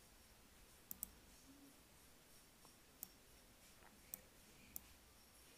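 A few faint computer mouse clicks over near silence: a quick double click about a second in, then single clicks about three, four and nearly five seconds in, as a search is stepped through.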